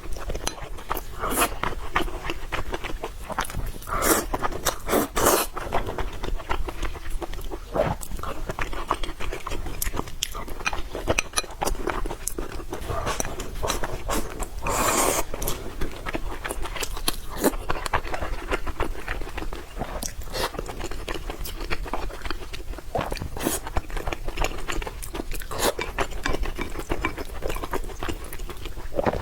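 Close-miked eating: steady chewing and crunching of food, with dense small clicks and a few louder bites.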